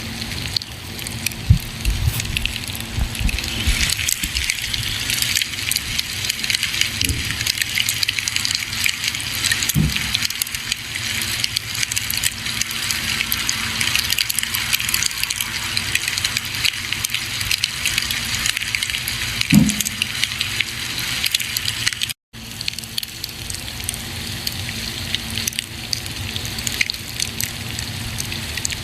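Campfire burning: wood crackling and popping over a steady hiss, with a few deeper thuds from shifting logs. The sound cuts out for a split second about two-thirds of the way through.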